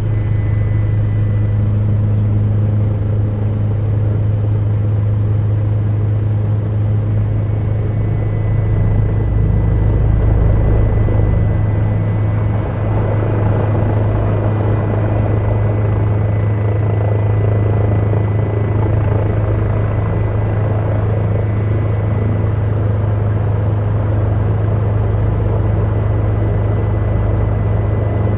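Helicopter heard from inside the cabin: a steady low drone of rotor and engine with a rushing noise over it and a thin, steady high whine. The sound swells slightly about ten seconds in, then settles.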